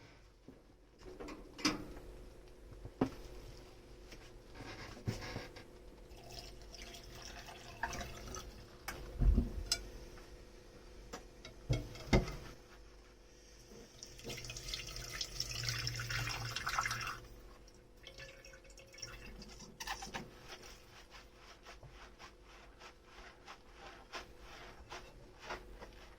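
Dishes being hand-washed at a kitchen sink: scattered clinks and knocks of tableware, with two louder knocks near the middle. Water runs in a short rush for about three seconds past the middle.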